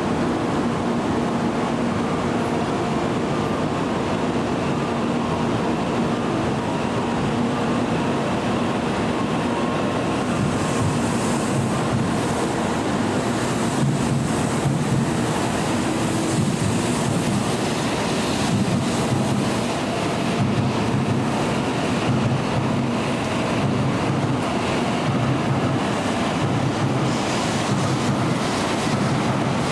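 Tokaido Shinkansen train pulling slowly out of a station platform, its wheels and traction motors running steadily with a low hum.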